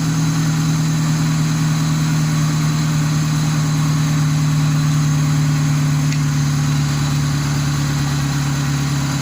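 Car engine idling steadily, with the air-conditioning compressor engaged while refrigerant is being charged into the system.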